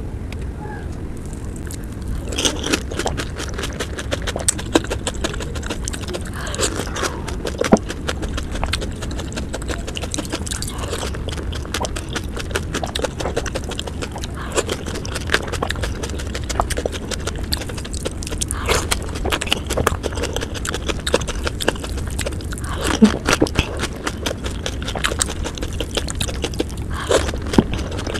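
Close-up eating of panipuri (golgappa): crisp puri shells filled with spiced water crunching and crackling wetly as they are bitten and chewed, played at double speed, over a steady low hum.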